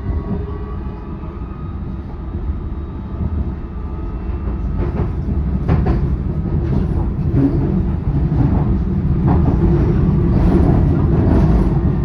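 Passenger train running, with a continuous rumble and a steady whine early on, then a growing run of knocks and clattering about halfway through as it grows louder. The carriage is shaking and rattling, making odd noises.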